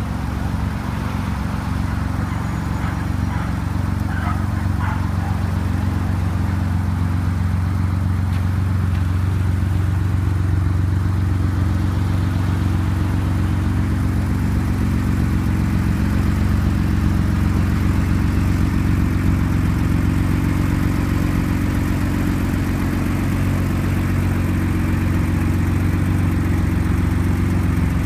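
Porsche 911's 2.7-litre fuel-injected air-cooled flat-six idling steadily.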